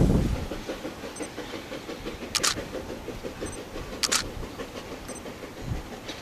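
Narrow-gauge C2 steam locomotive working slowly: a low thump at the start, then a steady low rumble with two sharp exhaust chuffs, spaced nearly two seconds apart.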